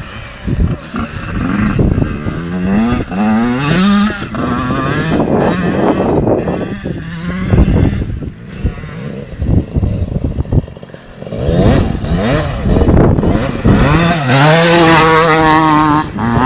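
Two-stroke motocross bike engines revving and accelerating. The pitch climbs in repeated steps several times, dips, then rises and holds high near the end.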